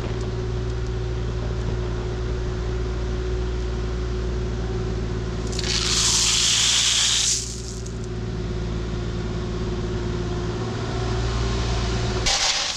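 Heavy equipment engine running steadily, with a loud burst of hiss lasting under two seconds about six seconds in. The engine sound cuts off abruptly near the end.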